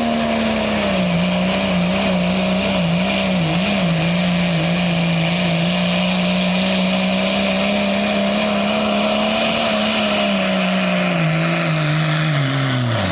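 Turbo diesel pulling truck's engine running flat out under load while pulling the sled, a loud steady drone that wavers slightly in pitch. Over the last few seconds the pitch falls as the engine slows, and it drops away sharply at the very end.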